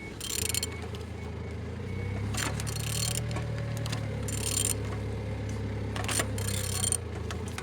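Used engine being turned over by its crankshaft without running, a check that it rotates freely. There is a steady low hum, with short clicking, hissing bursts every second or two.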